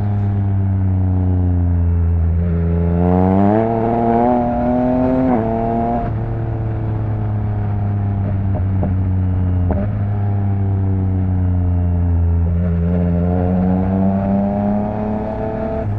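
Yamaha MT-09's inline three-cylinder engine running through an open Akrapovič exhaust while riding: the pitch climbs steadily for a few seconds as the bike accelerates, drops suddenly around six seconds in, holds at a steady cruise, then rises gently again near the end.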